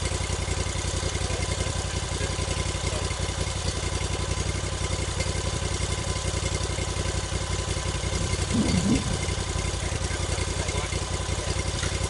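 Portable sawmill's engine idling steadily, with a brief louder swell a little before nine seconds in.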